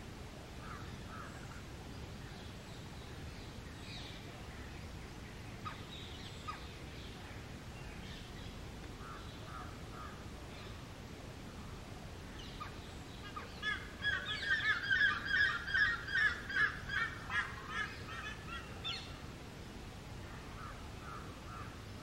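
Bird calls: faint scattered chirps at first, then about halfway through a loud, rapid series of harsh calls, about three a second, lasting some five seconds.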